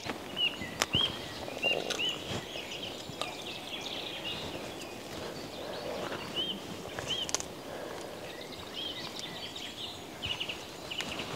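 Small birds calling: short, high, arching chirps repeated irregularly, with a few sharp clicks and a soft rustle underneath.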